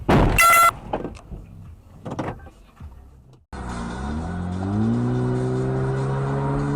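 A loud half-second blare with a steady pitch right at the start and a weaker burst about two seconds in. Then, after a cut, a car engine heard from the car rises in pitch for about a second as it accelerates and runs steadily after that.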